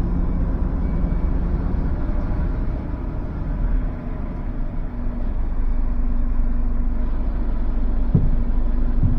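HGV diesel engine running steadily as the lorry manoeuvres at low speed. Its note rises a little about halfway through, and two short low knocks come near the end.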